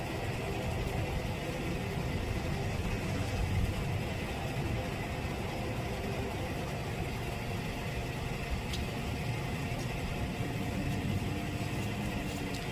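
Truck engine running steadily, a low, even engine noise with no change in speed.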